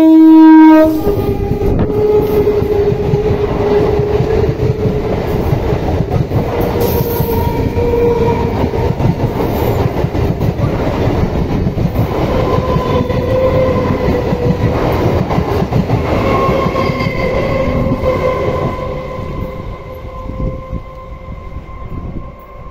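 Electric multiple unit (EMU) suburban train sounding its horn, which cuts off about a second in, then running close past: a long, loud rumble of wheels and carriages on the track with a faint steady whine over it, fading away near the end.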